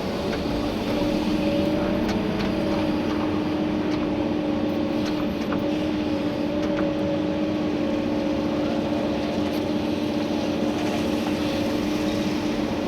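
Komatsu PC290-11 excavator's diesel engine and hydraulics running steadily while digging gravel, heard from inside the cab: a constant hum with a few faint clicks.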